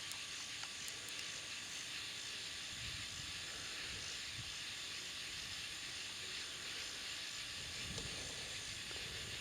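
Faint, steady outdoor ambience by the river: an even high hiss with a few soft low thumps.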